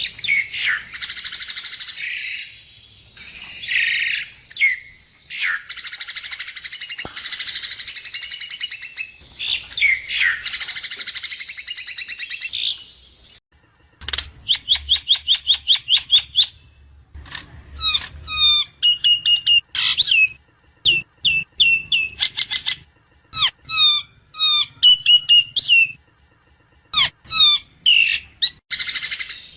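Javan myna (jalak kebo) calling: dense, harsh chattering and warbling for the first half, then a rapid run of about six repeated notes a second for two or three seconds, then separate short whistled notes, some sliding in pitch, with short pauses between them.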